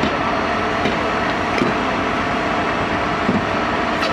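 Steady mechanical drone of idling vehicle engines, with a constant thin hum tone through it.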